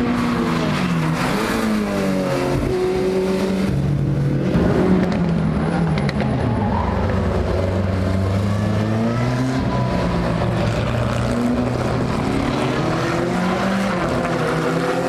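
Historic racing car engines running hard, several at once, their pitch rising and falling as they accelerate and pass.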